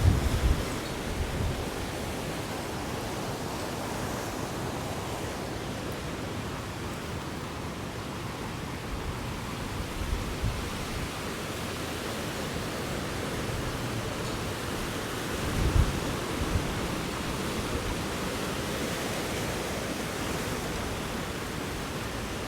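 Strong wind blowing steadily, with low gusts buffeting the microphone at the start and again about 10 and 16 seconds in.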